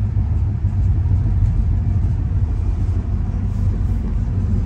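Steady low rumble of the moving passenger train, heard inside a 1950s Budd-built stainless steel sleeping car.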